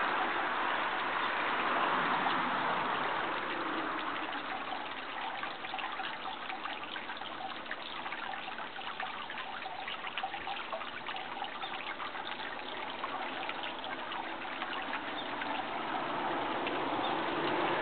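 Steady running water trickling and splashing, with a fine crackling patter through the middle.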